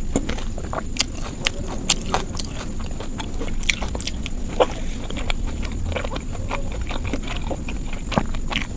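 Close-miked eating: wet chewing and mouth smacking, with irregular sharp clicks of the lips and teeth.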